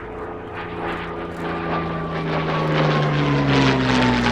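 WW2 piston-engined propeller warbird flying past, its engine growing louder and its note dropping in pitch as it goes by.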